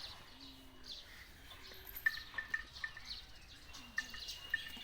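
Faint small-bird chirps: a run of short, clipped notes repeated every fraction of a second from about two seconds in.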